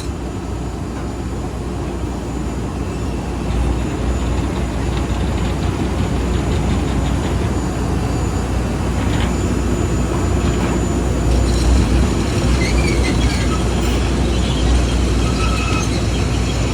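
Steady, loud mechanical rumble of airport ramp machinery and aircraft noise while cargo is unloaded from a Boeing 737. It grows a little louder about four seconds in, with faint squeaks in the second half.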